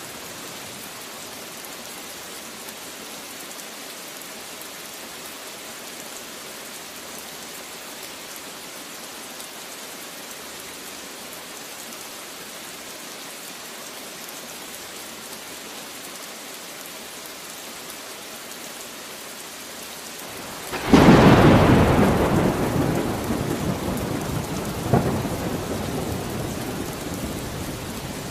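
Steady rain falling, then about 21 seconds in a sudden loud thunderclap that rumbles and slowly fades, with a second sharp crack a few seconds later.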